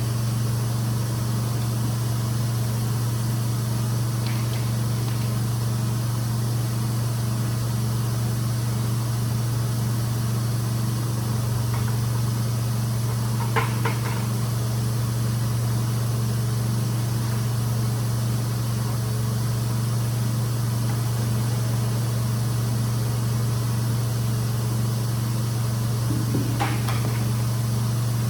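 Carpet-cleaning extraction equipment running steadily: a constant hum over a hiss of air. Light knocks about halfway through and again near the end.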